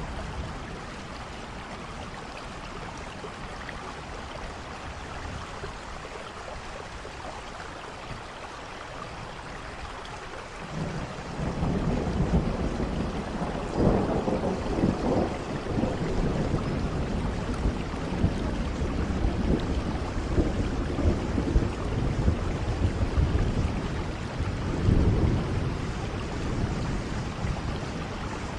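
Steady rain falling. About ten seconds in, a low thunder rumble sets in and rolls on over the rain, swelling several times.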